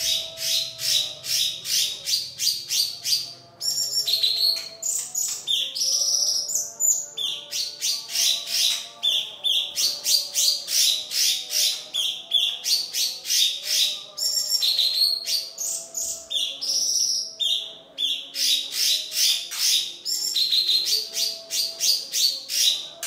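Fast, high-pitched chirping, about four sharp chirps a second in long runs, broken every few seconds by short whistled phrases: a bird-song tutor recording for training cage birds.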